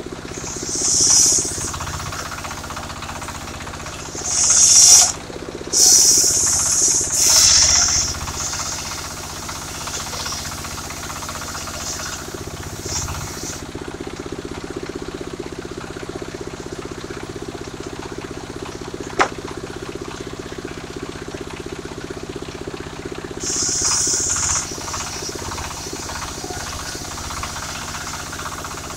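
Engine of a portable circular sawmill running steadily. The blade cuts through wood in short hissing bursts, several in the first eight seconds and once more near the end, and there is one sharp click about two-thirds of the way through.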